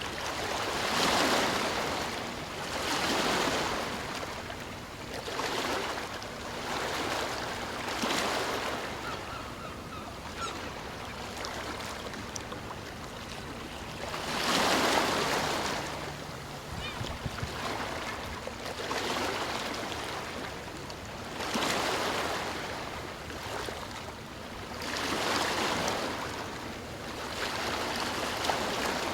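Ocean surf: waves break and wash up the shore one after another. Each comes as a swell of hiss lasting a second or two, with a quieter wash between them.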